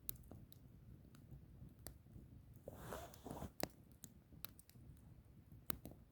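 Wood fire crackling faintly, with scattered sharp pops and a brief hiss just before the loudest pop, about three and a half seconds in.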